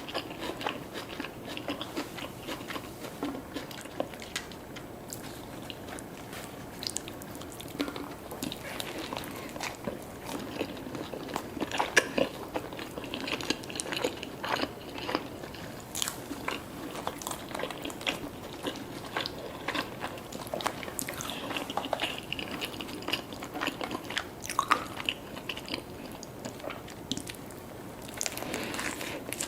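Close-miked eating: irregular crunchy bites and wet chewing of fast food, with a few sharper, louder crunches along the way.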